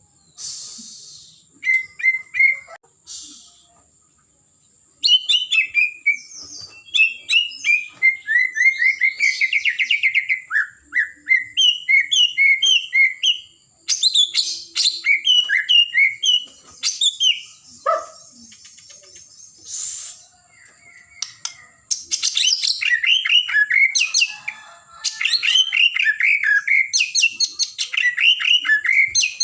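White-rumped shama (murai batu) singing in full voice: rapid, varied runs of whistles and chattering notes, delivered in bursts with short pauses between them.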